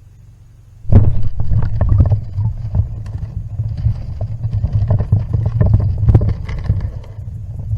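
Water churning and bubbling against a submerged camera, starting suddenly about a second in with a heavy low rumble full of crackles and knocks.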